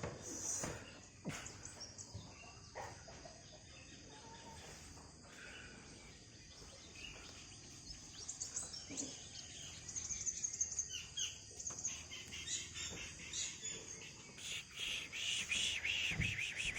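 Small birds chirping against faint background noise. The calls grow busier in the second half, with a quick run of short repeated chirps near the end.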